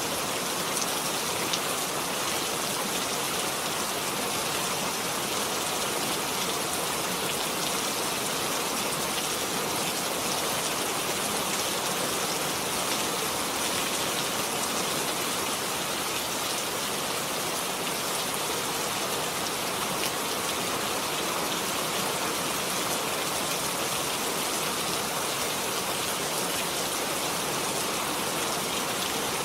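Steady rainfall, an even hiss of many drops with a few faint individual drop ticks, unchanging in level throughout.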